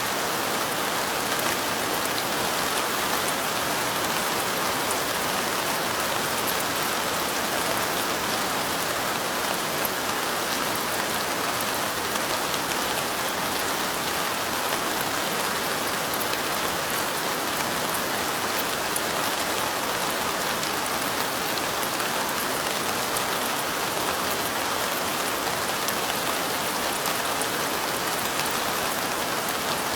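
Steady light rain falling: an even hiss of rainfall with fine drop ticks scattered through it.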